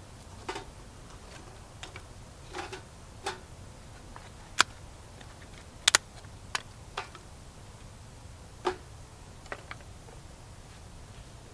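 Small wood fire crackling, with irregular sharp pops and snaps, the loudest about a third and halfway in.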